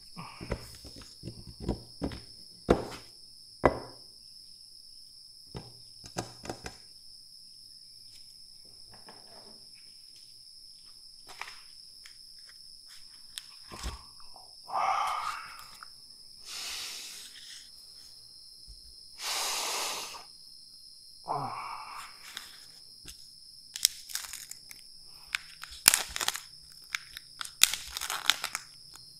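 Close-miked crunching of raw red bell pepper: sharp crisp cracks of biting and chewing, scattered irregularly, with a few longer rasping sounds near the middle.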